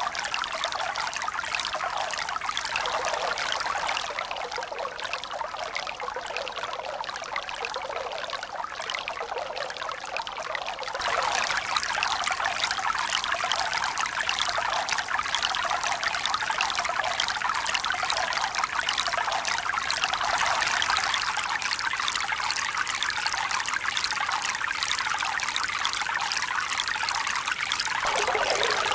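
Steady running water, a continuous trickling and pouring splash with no swell of waves. It turns abruptly louder and brighter about eleven seconds in.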